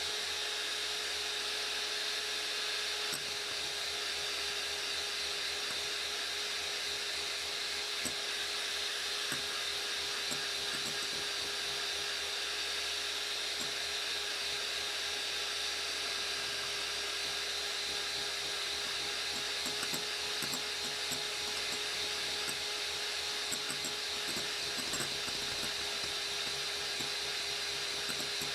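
Electric hand mixer running steadily, its beaters whipping eggs and sugar into foam for a sponge batter, with a few faint ticks.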